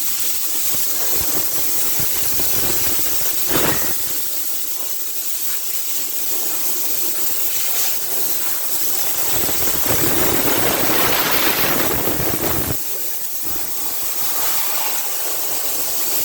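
Hissing spray, as when an engine bay is being cleaned, louder and fuller from about ten to thirteen seconds in, with one sharp knock about three and a half seconds in.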